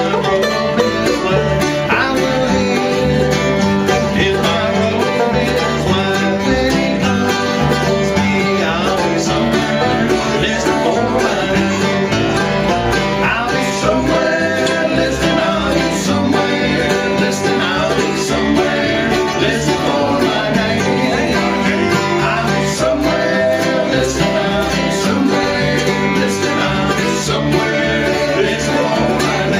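Bluegrass band playing live, an instrumental stretch with banjo picking over acoustic guitar.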